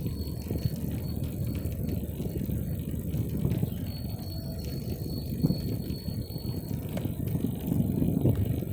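Bicycle being ridden: a steady low rumble with scattered light rattles and clicks.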